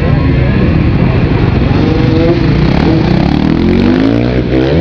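Freestyle motocross dirt bike engines revving and running, pitch climbing in long rising sweeps, with quicker revs near the end.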